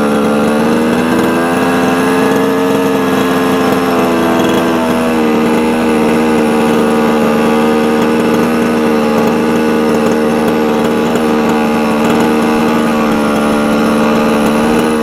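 Two-stroke gas engine of a 1/5-scale Losi 5ive-T RC truck running steadily at low speed, its pitch lifting slightly about a second in and settling back a few seconds later.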